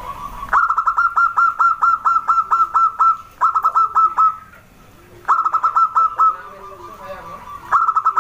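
Zebra dove (perkutut) cooing: runs of rapid, evenly spaced clipped notes. One long run comes first, then three shorter runs with short pauses between them.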